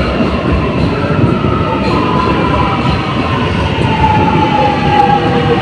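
Alstom electric train's traction motors whining with several tones that fall slowly and steadily in pitch, over a steady rumble of wheels on rail: the train is slowing down.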